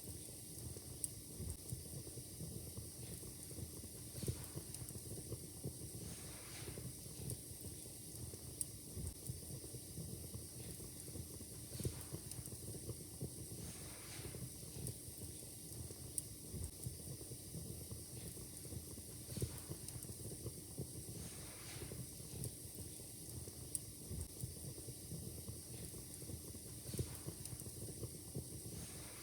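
Wood fire crackling steadily, with scattered small crackles and an occasional louder pop every few seconds over a low steady hiss.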